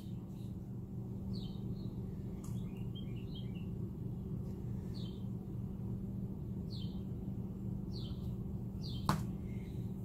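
Small songbirds chirping on and off, short high notes every second or so with a quick flurry about three seconds in, over a steady low hum. A single sharp click about nine seconds in.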